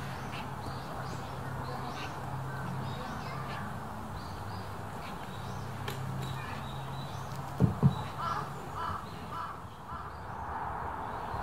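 Birds calling outdoors, including a run of four short, harsh caws about eight seconds in, over a low steady hum. Two sharp knocks come just before the caws.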